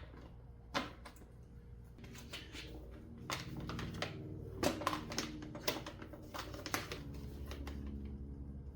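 Scattered clicks and knocks of pressure-washer accessories being handled and fitted into their storage spots on the washer's body, over a low steady hum that grows louder near the end.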